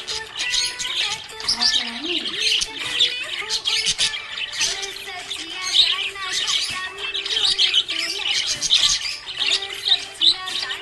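Small pet parrots chirping and squawking nonstop, many short high calls overlapping.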